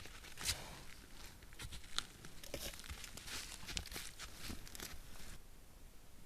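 Red deer stag foraging under snow: a quick, irregular series of rustles and crackles that stops about five seconds in.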